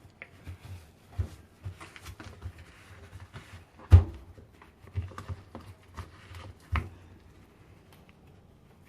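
Handling noises at a washing machine, with irregular knocks, clicks and rustling. The loudest is a single thump about four seconds in, and there are sharper knocks about a second in and near the end.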